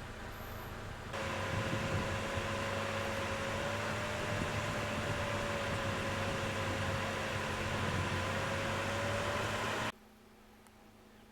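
Steady mechanical hum with a faint, slightly wavering tone, starting suddenly about a second in and cutting off abruptly near the end.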